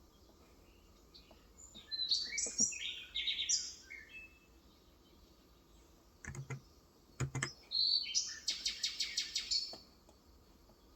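Small birds chirping in two bouts, the second a rapid trill of repeated notes lasting about two seconds. Around the middle, a few soft keystrokes on a Cox Endeavor electrostatic-capacitive keyboard.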